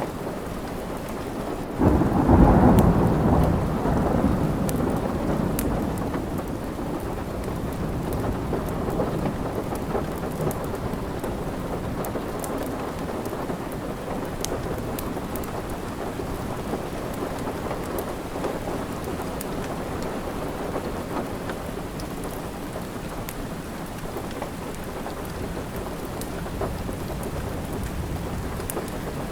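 Steady rain, with a roll of thunder that breaks in about two seconds in and rumbles away over several seconds. Scattered small crackles from the fireplace come through the rain.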